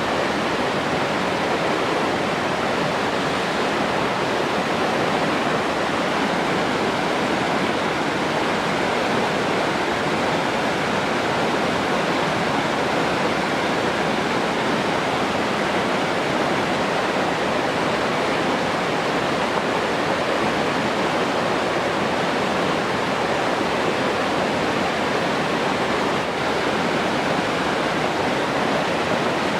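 Steady rushing water, like a waterfall or fast stream, with an even, unbroken sound.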